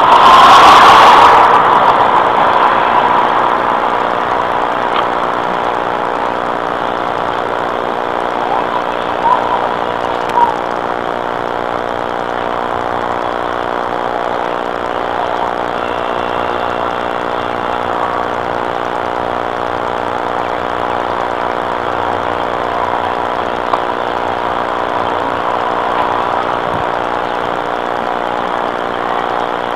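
Vehicle engine idling steadily. A loud rushing pass fades out in the first two seconds, and a few light knocks come around ten seconds in.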